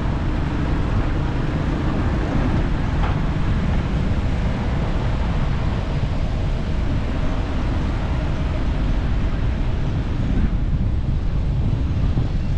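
Steady rumble and rush of a car on the move, with wind buffeting the microphone.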